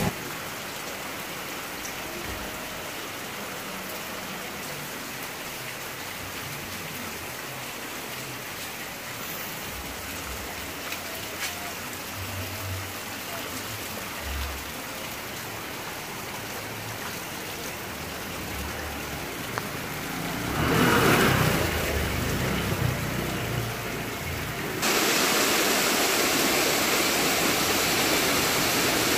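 Steady rushing water noise, with a brief louder swell about two-thirds of the way through, then a sudden jump to a louder, brighter rush near the end.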